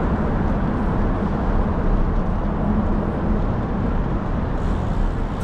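Steady wind rush and rumble on the microphone of a camera riding along on a moving bicycle.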